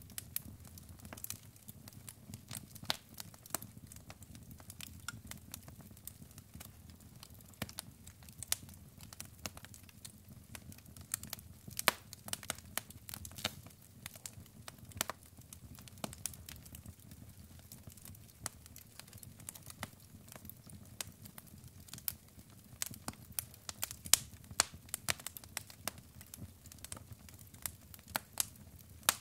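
Burning logs in a fireplace crackling: irregular sharp pops and snaps of varying loudness, some much louder than others, over a low steady rumble.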